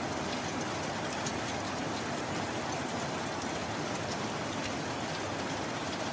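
Heavy rain falling steadily, with scattered individual drops ticking sharply through the hiss.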